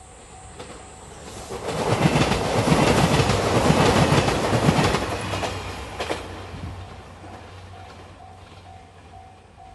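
JR Shikoku 2700 series diesel express train passing over a level crossing, its wheels clattering over the rails. It builds from about a second and a half in, is loudest between about two and five seconds, then fades. The crossing's warning bell rings on and off evenly throughout.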